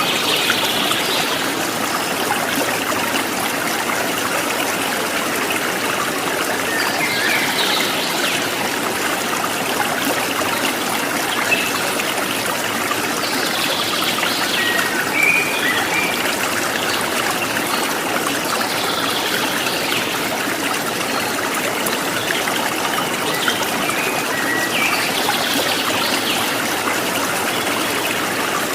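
Running water from a stream, a steady trickling rush, with a bird's short chirping phrases recurring every several seconds over it.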